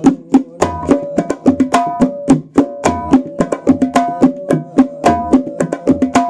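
Sundanese terbang frame drums, a newly made tirintit among them, playing a fast interlocking rhythm of sharp, ringing strikes at several distinct pitches. The pattern repeats about once a second.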